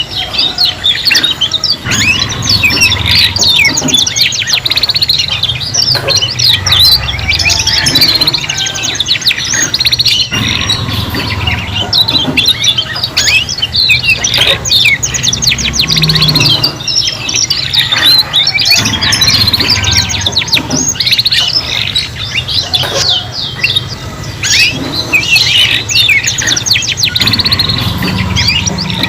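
Several domestic canaries singing together: long, continuous song of rapid trills, chirps and quick rising and falling whistles that overlap without a break.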